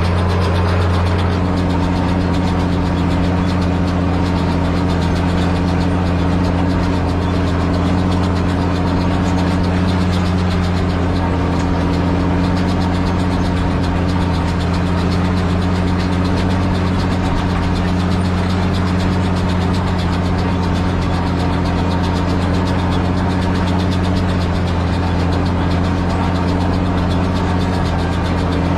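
Same Titan 160 tractor engine running steadily at an even speed, with no change in revs.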